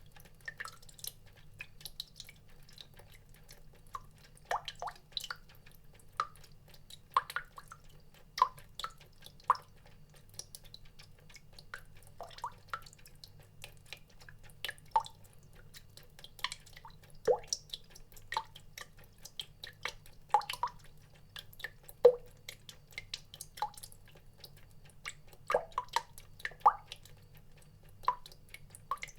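Water drops falling one at a time at an uneven pace, several a second, each a short pitched plink of varying pitch, over a faint low hum.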